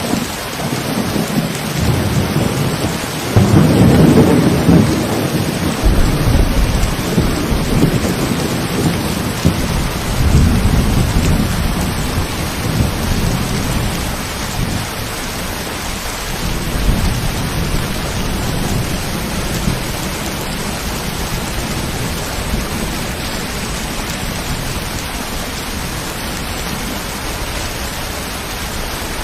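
Steady rain falling, with a long roll of thunder that breaks in about three seconds in, rumbles on in waves and fades out by about halfway, leaving the rain alone.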